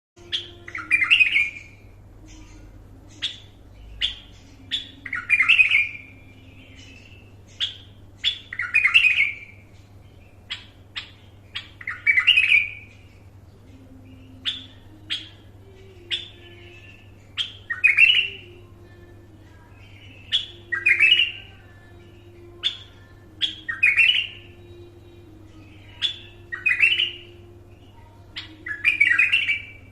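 Bulbul singing: short sharp notes followed by a longer warbled phrase, repeated every three to four seconds, over a faint steady low hum.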